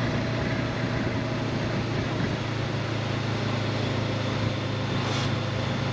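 Honda CB500X's parallel-twin engine running at a steady cruise, with a steady rush of wind over it.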